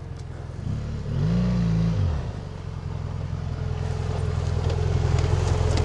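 Motorcycle engine idling, blipped once about a second in with a short rev that rises and falls back, then running steadily and slowly getting louder.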